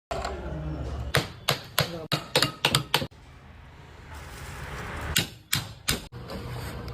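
Electrical sparking: a run of sharp, irregular snaps over a low hum, in two bursts with a rising hiss between them.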